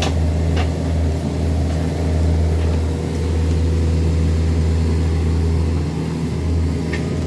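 Excavator diesel engine running steadily with a low drone, with a few short clicks near the start and near the end.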